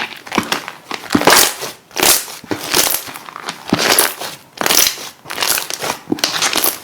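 Slime being squeezed and pressed by hand, giving a series of crackly, clicking bursts at roughly one per second.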